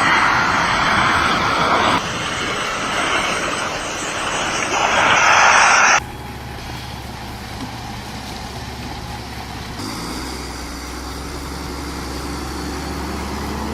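A chainsaw running hard for about six seconds, then an abrupt cut to a heavy truck's engine giving a quieter, steady low drone.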